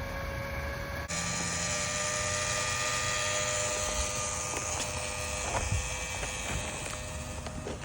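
Water pump running with a steady hum while water flows through it. About a second in, the sound abruptly becomes louder and hissier.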